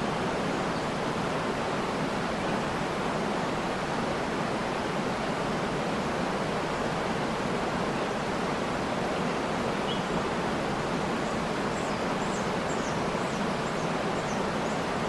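Steady rushing of a waterfall, with a few faint high bird chirps in the second half.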